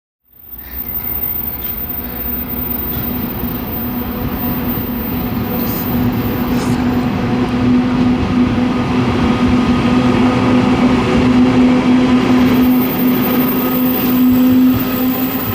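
Taiwan Railways freight train hauled by an E300-series electric locomotive running through on the rails. It makes a steady low hum over a rumble of wheels on track that grows gradually louder.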